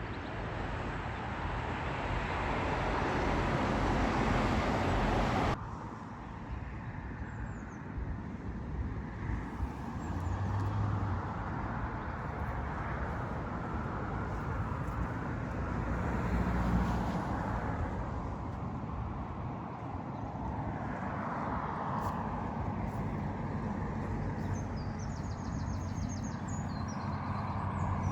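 Road traffic passing, a steady rush that builds over the first few seconds and cuts off sharply, then keeps swelling and fading. Faint bird chirps come through near the end.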